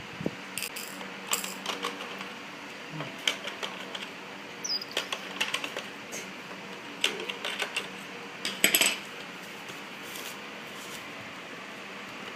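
Irregular sharp clicks, taps and small clinks of hard plastic and metal parts and tools being handled during disassembly, some in quick clusters, the loudest a short clatter late on, over a faint steady hum.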